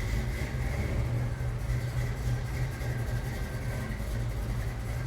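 A vehicle engine running steadily: an even, low drone with no revving.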